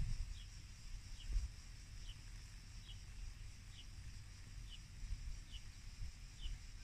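A small bird repeats a short, high, falling call about once a second, over a steady high-pitched drone of insects and a faint low rumble of wind on the microphone.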